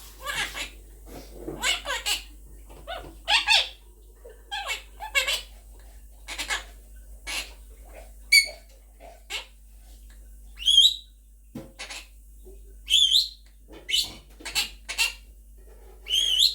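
Quaker parrot (monk parakeet) chattering in a string of short calls, about one a second, some of them quick high warbling chirps.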